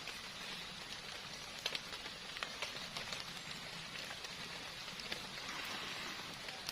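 Heavy rain falling steadily, a constant hiss with scattered sharper drops striking close by.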